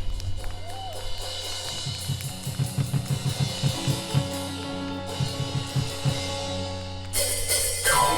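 A live pop-rock band playing an instrumental passage: held chords over a steady bass-drum beat that comes in about two seconds in. About seven seconds in the full band and cymbals come in louder.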